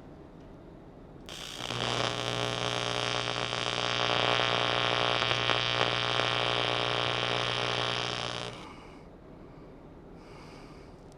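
AC TIG welding arc on thin aluminum: a steady electrical buzz with a hiss over it, starting abruptly about a second in and cutting off abruptly about seven seconds later.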